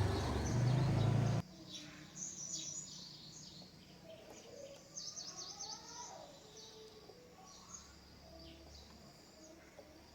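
A loud buzzing hum with hiss that cuts off suddenly about a second and a half in, then birds chirping and calling, with short, quick chirps repeating.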